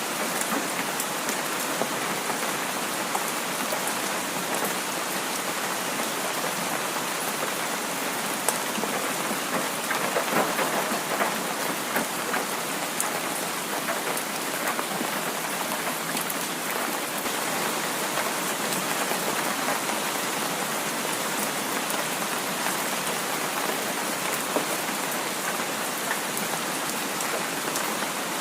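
Heavy rain falling steadily, a dense hiss with many small drop ticks, swelling slightly about ten seconds in.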